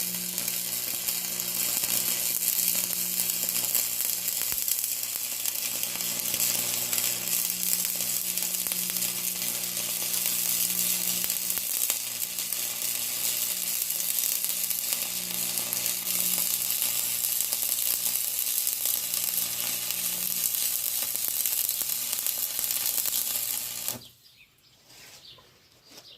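Stick (arc) welding: the steady crackling sizzle of the arc as an electrode rod is run on steel, with a low hum beneath. The arc breaks and the sound cuts off suddenly about 24 seconds in.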